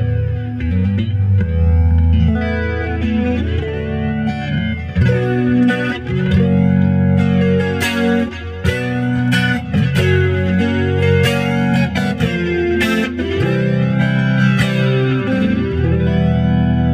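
Mexican-made Fender Stratocaster electric guitar played clean on the neck pickup: ringing chords and picked notes, with a light chorus shimmer sweeping through the sound.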